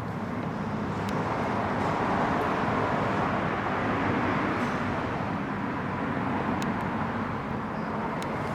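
Steady running noise of a motor vehicle that swells over the first couple of seconds, holds, and eases a little near the end.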